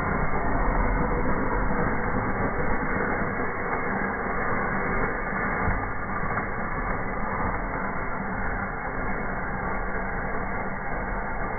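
Fire burning in a fireplace: a steady, muffled rushing noise with fine crackling.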